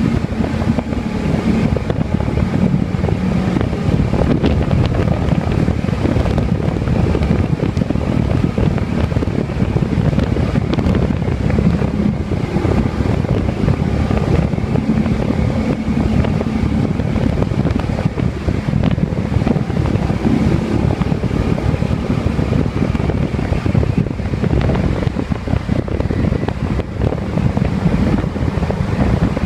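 Motorcycle engine running at a steady pace while riding, with heavy wind buffeting the microphone.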